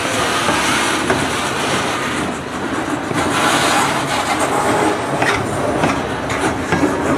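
Covered hopper freight cars rolling slowly past, their wheels rumbling on the rails with irregular clanks.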